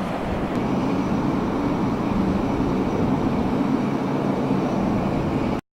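Jet aircraft engines running: a loud, steady rumble that grows a little about half a second in and cuts off abruptly near the end.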